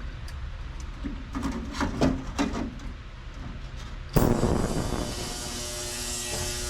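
A few light clinks and rustles as small carburetor parts are handled. About four seconds in, an ultrasonic parts cleaner switches on with a steady electric buzz and hiss, cleaning the parts soaking in its bath.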